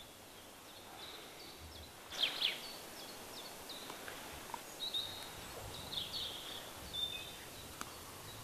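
Small songbirds calling: a cluster of sharp descending chirps about two seconds in, then scattered short calls and brief trills, over a faint steady hiss.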